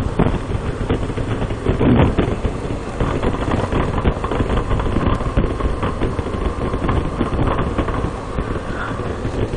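Wind rushing over the microphone over the steady running noise of a motorcycle under way.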